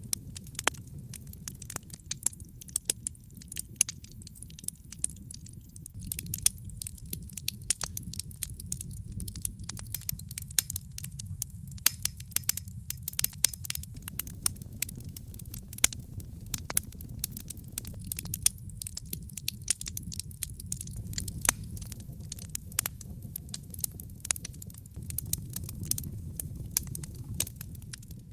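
Wood fire crackling in a fireplace: frequent sharp pops and snaps, irregular and some much louder than others, over a steady low rumble of burning.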